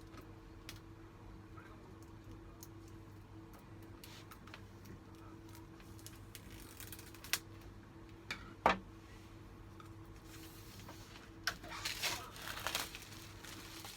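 Packaging being handled: scattered soft clicks and taps, two sharper ones in the middle, then a stretch of crinkling wrapping from about ten seconds in, over a faint steady hum.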